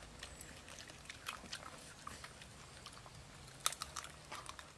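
Faint, scattered crunches and clicks of food being chewed, with one sharper crack about three and a half seconds in.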